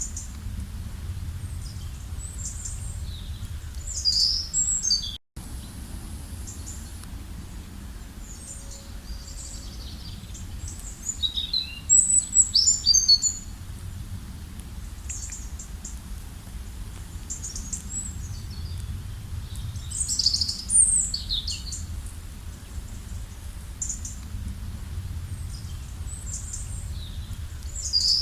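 Songbirds chirping and trilling in short clusters of quick, high notes every several seconds, over a steady low rumble. The sound cuts out for an instant about five seconds in.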